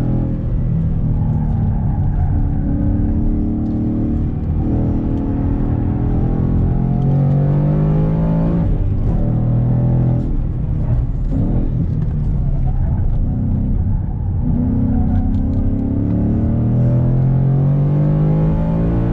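Ford Mustang's engine heard from inside the cabin on track, its pitch climbing under throttle and falling back as the car slows for corners. The note drops sharply near the middle, is choppy for a few seconds, and then climbs steadily near the end.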